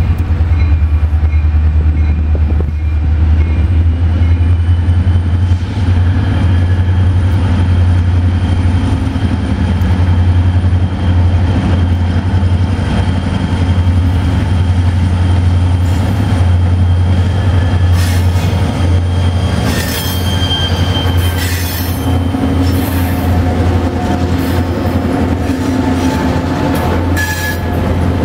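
Diesel-led freight train passing close, CSX and Norfolk Southern locomotives first and then the freight cars, with a steady deep rumble. The wheels squeal briefly on the rails about two-thirds of the way in and again near the end.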